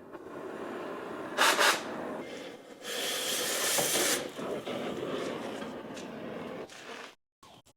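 Pressurised gas hissing in bursts, a short one about a second and a half in and a longer, louder one about three seconds in, with no tone to it.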